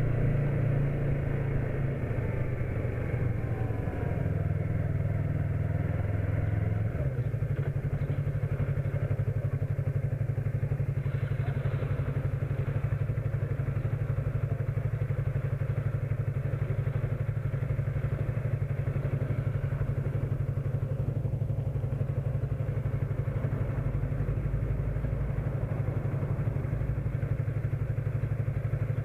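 Motorcycle engine running, heard from the rider's own bike: its pitch falls over the first few seconds, then it settles into a steady drone for the rest of the stretch.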